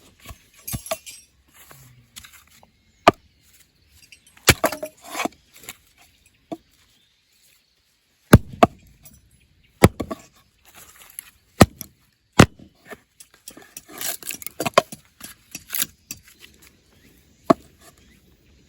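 Firewood being chopped: sharp, irregular knocks of a blade on wood, with a few quieter clatters between them.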